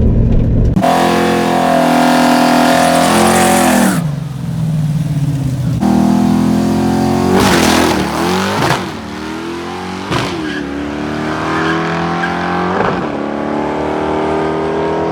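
V8 drag car revving hard for a few seconds, then accelerating down the strip through the gears, its pitch climbing and dropping sharply at each of three shifts.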